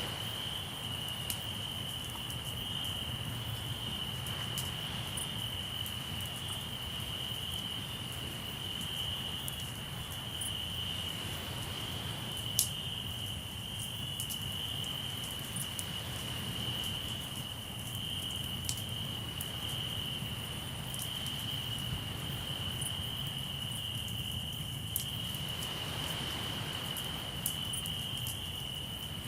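Crickets singing in one unbroken high-pitched trill, with a campfire crackling in scattered sharp pops, the loudest about twelve seconds in. A low steady rumble from the sea lies underneath.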